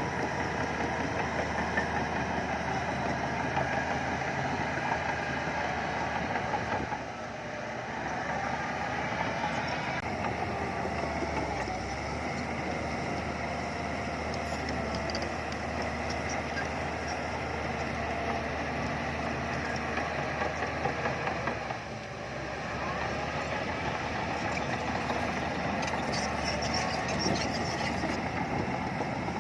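Heavy diesel earthmoving machinery running, a bulldozer working soil with dump trucks about: a steady engine din with clanking. The level dips briefly about a quarter of the way in and again about three-quarters through.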